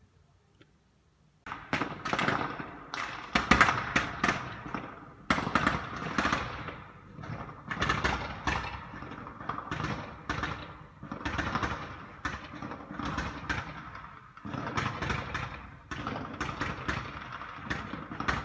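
Fireworks going off in rapid succession: dense sharp bangs and crackle starting suddenly about a second and a half in, coming in clusters every second or two.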